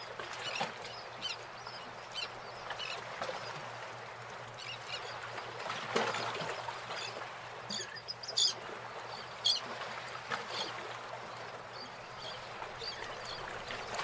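Birds calling: scattered short, high squawks, the sharpest twice in quick succession a little past the middle, over a steady hiss.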